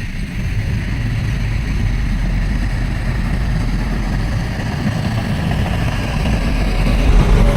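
Heavy diesel engine of earthmoving machinery running steadily, growing a little louder near the end.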